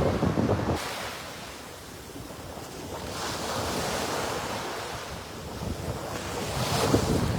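Ocean waves washing onto a beach, with wind buffeting the phone microphone; a low gusty rumble at the start, a wave's hiss swelling about three seconds in, and the wind picking up again near the end.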